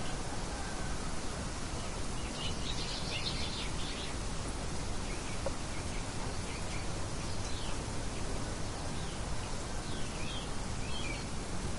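Small birds chirping in short high clusters, busiest about two to four seconds in and again briefly near the end, over a steady rushing background noise.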